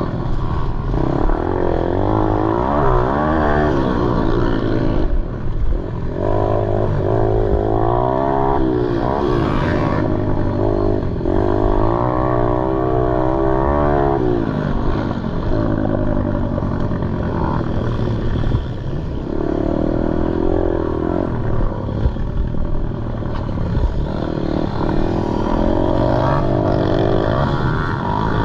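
Pit bike engine racing hard, its pitch climbing and dropping again and again as the rider opens and closes the throttle through a lap.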